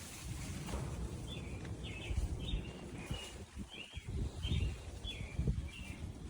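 A bird calling, a series of about eight short chirps repeated at an even pace, over a low rumble of outdoor noise.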